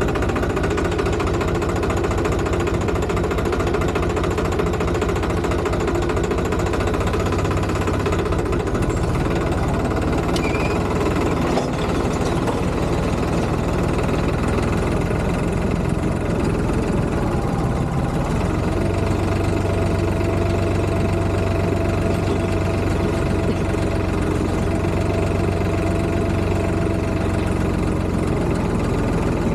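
Tractor engine running steadily with a knocking chug. Its note shifts slightly about two-thirds of the way through.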